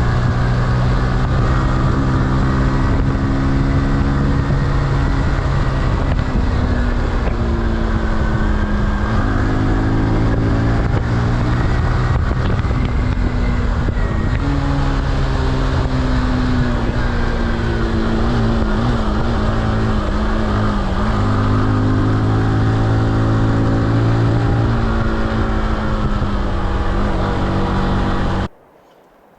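Motorcycle engine running under way, with wind rushing over the microphone. Its pitch rises and falls again and again as the rider works the throttle and gears, and the sound cuts off suddenly near the end.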